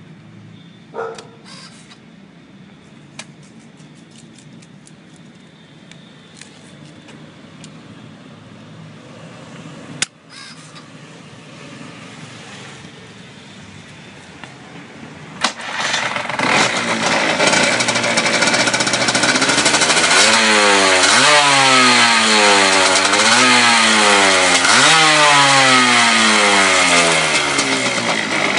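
Cagiva Planet 125's single-cylinder two-stroke engine starting about fifteen seconds in, after a few quiet clicks and knocks, then running and revved up and down several times, as a test run on a repaired CDI.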